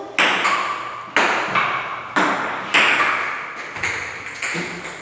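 Ping-pong ball knocking on the table and paddles during a rally, roughly once a second, each hit ringing out in a strong echo from the small, closed hall.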